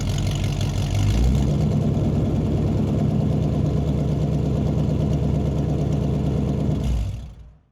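Truck engine idling steadily, fading out near the end.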